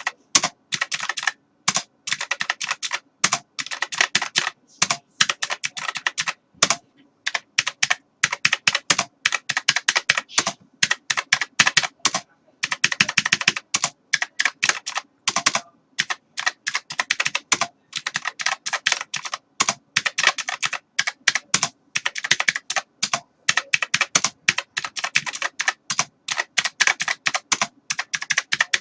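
Typing on a computer keyboard: fast runs of key clicks, several a second, broken by short pauses.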